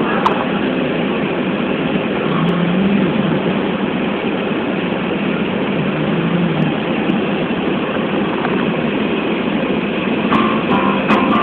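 Car driving through deep, wet spring snow: steady engine and tyre noise. Music with guitar comes in about ten seconds in.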